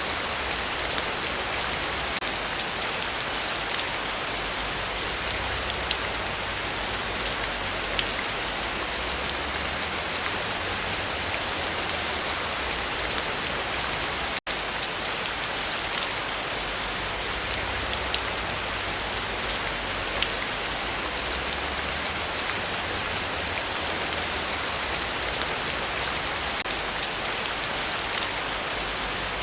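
Heavy rain falling steadily, a dense, even hiss of drops. It cuts out for an instant about halfway through.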